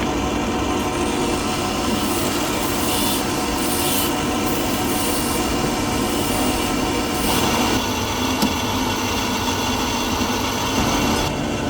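Factory machinery running steadily: a dense, continuous working noise with several steady hum tones underneath and a few faint ticks.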